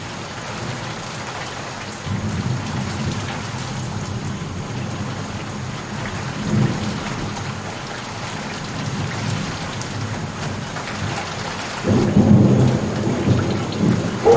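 Steady rain with thunder rumbling low beneath it, and a louder roll of thunder near the end.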